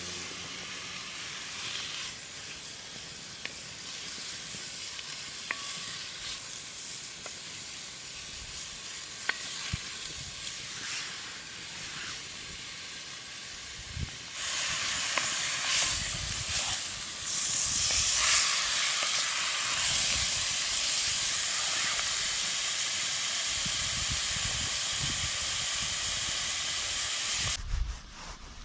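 Pheasant breast frying in oil in a Dutch oven: a steady sizzle with a few light clicks, which grows louder and fuller about halfway through and cuts off suddenly near the end.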